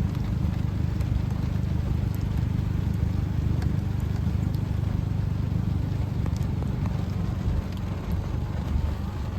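Steady low rumble of a car driving, heard from inside the cabin, with scattered light ticks of rain hitting the car.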